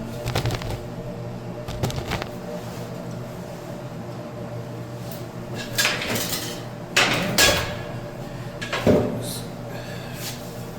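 Scattered knocks and clatters of plumbing parts and tools being handled, several in a cluster past the middle, over a low steady hum.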